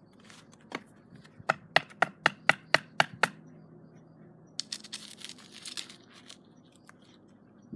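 A quick run of sharp wooden knocks, about four a second, then a short scratchy scraping of wood being handled.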